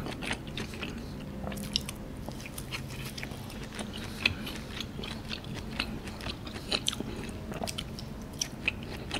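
Close-miked chewing of seared wagyu A5 beef: soft wet mouth clicks and smacks scattered throughout, with the meat put in the mouth near the end.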